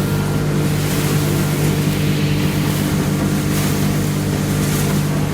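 A 7.6 kW sawdust extraction blower running steadily, with a constant hum and a rush of air through the sweeper hose.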